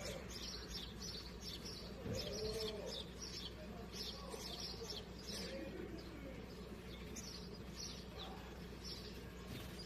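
Small birds chirping in short, rapidly repeated high calls, with a low cooing call about two seconds in and a few fainter coos later.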